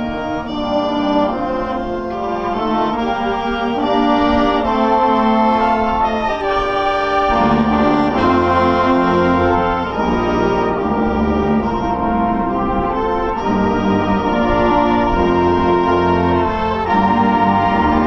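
A wind band's brass and woodwinds playing a slow, sustained chorale, swelling louder over the first few seconds, with low brass joining on deep held bass notes about seven seconds in.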